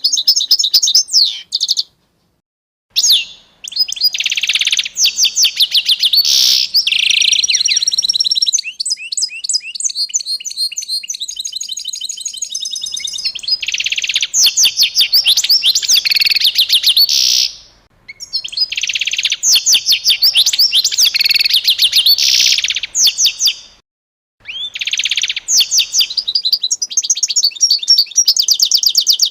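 A songbird singing long phrases of rapid, high chirps and trills, broken by short silences; near the middle the song runs as a fast, even trill.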